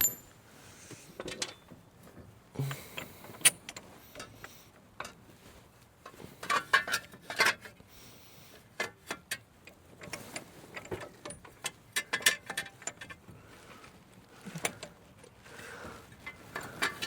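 Intermittent metallic clinks, taps and rattles of truck brake and hub parts and hand tools being handled and fitted, with a sharp knock about three and a half seconds in and busier bursts of clinking around seven and twelve seconds in.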